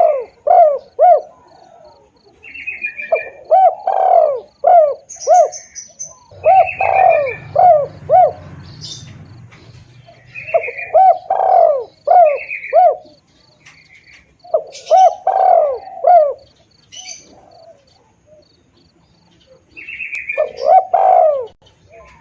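Spotted dove (tekukur) cooing, a lure call: phrases of several low, rhythmic coos repeated every few seconds, about six times. Other small birds chirp higher in between, over a faint steady high ticking about three times a second.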